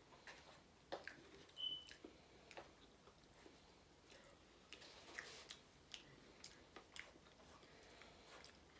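Faint close chewing of a mouthful from a Chipotle burrito bowl, with scattered small mouth clicks and smacks and a brief high squeak about a second and a half in.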